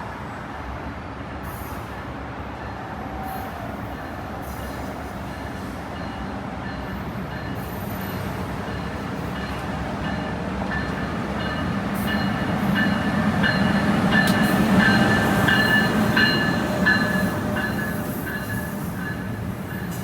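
New Jersey Transit train passing the station platform: a rumble that builds to its loudest about 14 to 16 seconds in and then eases, with high-pitched wheel squeal near the peak.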